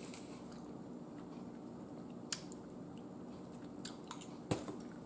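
Soft, wet chewing of a mouthful of food, with a few short sharp clicks of a metal fork against a plate or teeth, the sharpest about four and a half seconds in.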